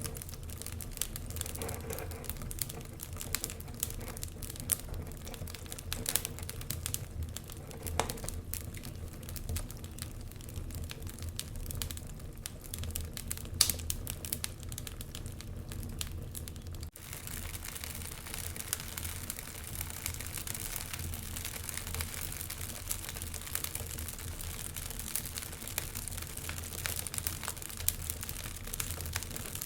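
Wood fire burning in a fireplace: irregular sharp crackles and pops over a steady low rumble of the flames. About halfway through the sound cuts out for an instant and comes back with a thicker hiss.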